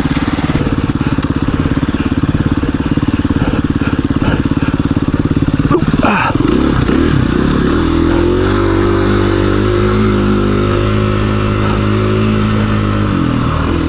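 KTM 350 EXC-F dirt bike's single-cylinder four-stroke engine running under way on the trail. About six seconds in the pitch rises, holds steady for several seconds, then drops off near the end.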